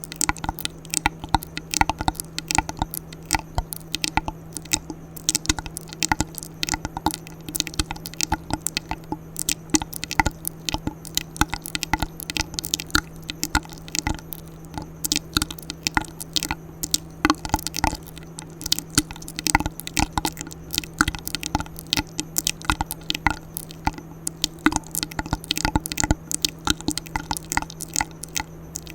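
Close-up ASMR mouth sounds: a fast, irregular stream of wet clicks, smacks and pops right at the microphone, over a steady low hum.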